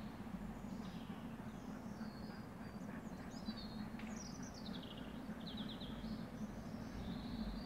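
A small bird chirping and singing in short high phrases, including a quick trill about five seconds in, over a steady low hum.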